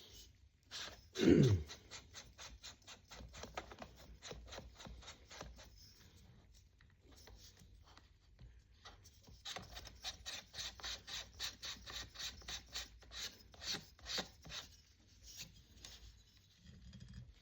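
A short falling squeak about a second in, then a long uneven run of light clicks and scrapes, about four or five a second, with a pause near the middle.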